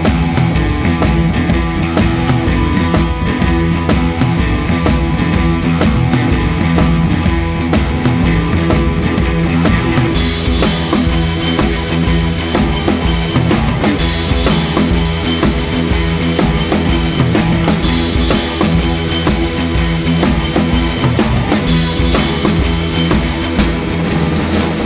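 Hard rock recording playing at full volume: a drum kit beating steadily under an electric guitar riff, turning brighter with cymbals from about ten seconds in.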